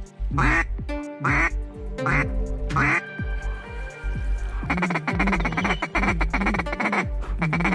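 Repeated duck quacks over background music with a steady beat. The music grows busier about two-thirds of the way in.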